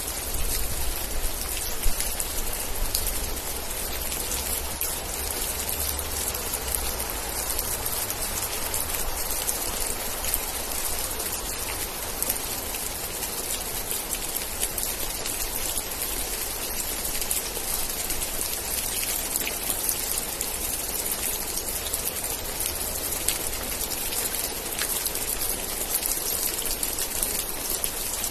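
Steady rain: an even hiss made of many small drop ticks, with a low rumble underneath.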